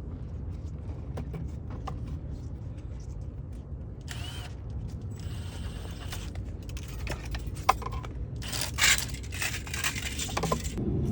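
Steady low rumble with scattered clicks, knocks and scrapes of hand tools and pipe work in a sewer trench, busiest in the second half.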